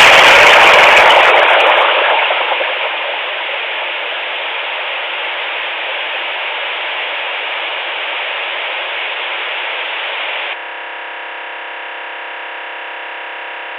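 Luiton LT-316 walkie-talkie's speaker giving out a strange received signal: a loud burst of static-like noise that settles into steady static, then about ten seconds in switches abruptly to a steady buzz of many tones.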